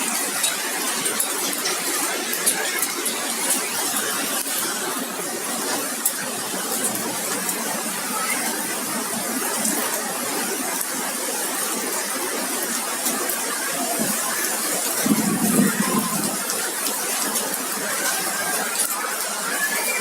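Hailstorm: rain falling steadily with many sharp ticks of hailstones striking hard surfaces, and a short low rumble about fifteen seconds in.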